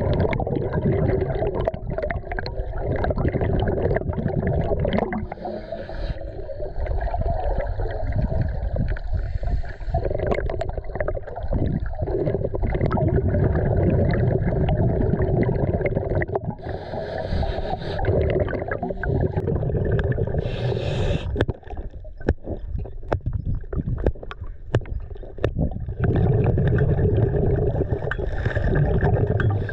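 Underwater sound on a scuba dive: a steady low rumble, with a bubbly hiss from a diver's exhaled regulator bubbles every several seconds.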